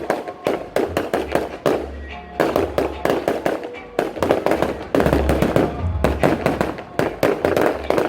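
Fireworks going off in rapid succession, several sharp bangs and crackles a second, with music playing underneath.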